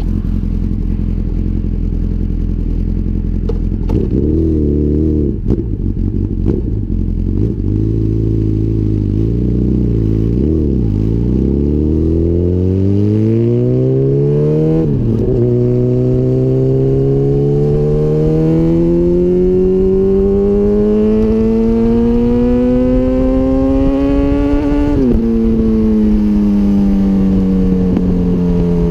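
2004 Honda CBR1000RR's inline-four engine through a full Micron exhaust system: it idles, is blipped up and down several times, then pulls with a long rising pitch, drops sharply at an upshift, pulls again and shifts up once more near the end before the revs slowly fall away.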